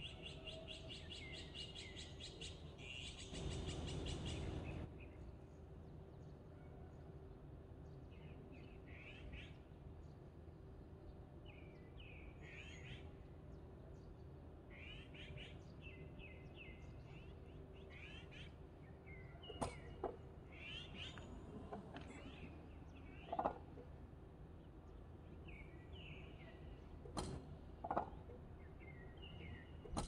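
Wild songbirds calling faintly from the trees: a fast rattling trill at first, then a louder harsh, rasping burst that lasts about two seconds. After that come scattered short chirps and call phrases.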